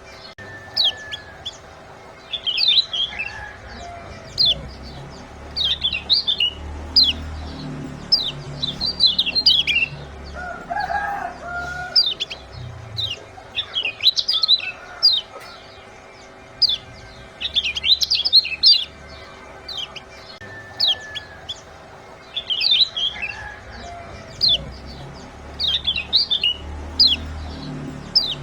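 Kecial kuning (lemon-bellied white-eye) giving rapid, sharp high 'ciak' chip calls in clusters every couple of seconds, over a steady low hum. A lower call sounds about eleven seconds in.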